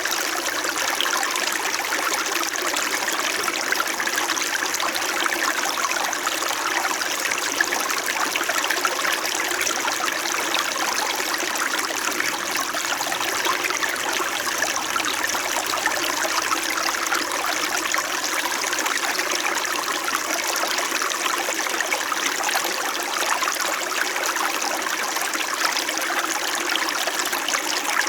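Small mountain stream in winter, water trickling and babbling over rocks, a steady, even flow.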